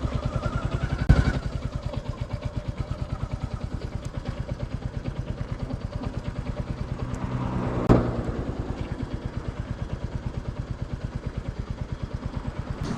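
Royal Enfield Classic 350's single-cylinder four-stroke engine running slowly near idle, with its steady even thump of roughly eight beats a second. A sharp knock comes about a second in, and another near eight seconds in on a brief swell in engine sound.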